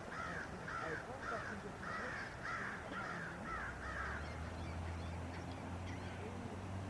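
A bird calling in a quick series of short, hooked calls, about two a second, which stops about four seconds in. A steady low hum comes in just before the calls end.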